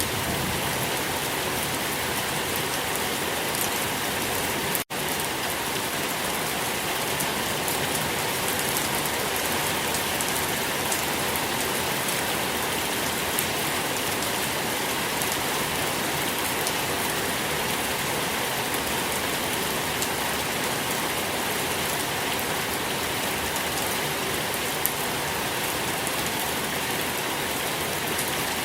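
Steady rain falling: an even, dense hiss with scattered drop ticks. The sound cuts out for an instant about five seconds in.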